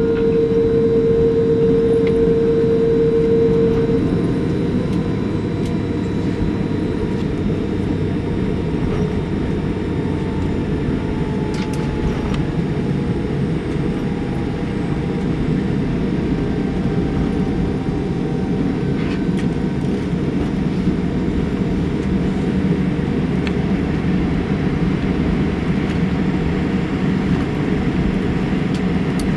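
Cabin noise inside a Boeing 787-8 taxiing after landing: a steady, dense rumble from the Rolls-Royce Trent 1000 engines at taxi power and the airframe rolling over the taxiway. A steady tone fades out about four seconds in.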